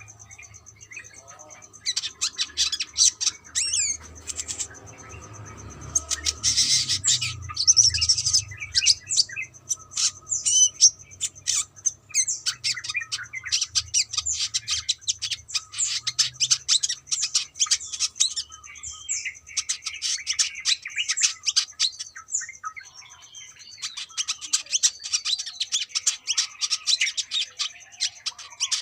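Brown-throated sunbird (kolibri kelapa) singing busily: rapid high chirps and twittering trills in dense bursts, with short pauses near the start and about two-thirds of the way through.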